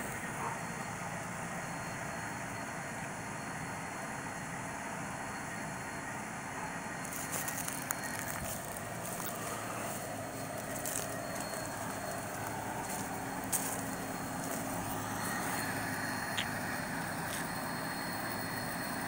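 Buick Riviera's V6 engine idling steadily, with a few light clicks.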